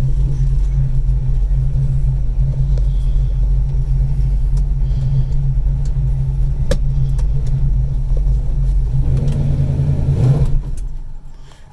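Ford 310 small-block V8 with a Lunati cam and Quick Fuel carburettor idling steadily in a 1968 Mustang, heard from the driver's seat. About ten and a half seconds in it swells briefly, then stalls and dies away.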